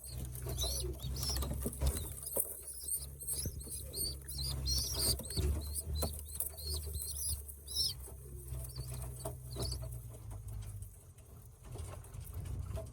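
Young Birmingham roller pigeons (squeakers) peeping in a loft: many short, high squeaks repeated in quick succession, thinning out after about ten seconds, with light patter of feet and feathers and a steady low rumble underneath.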